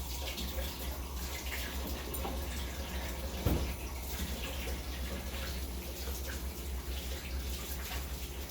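Kitchen tap running steadily as gloved hands are washed under it, with one brief knock about three and a half seconds in.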